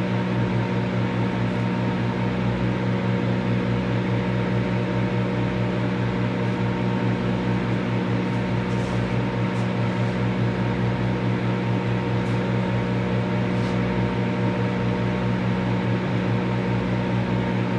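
Microwave oven running: a steady electrical hum with a low buzz, and a few faint high ticks in the second half.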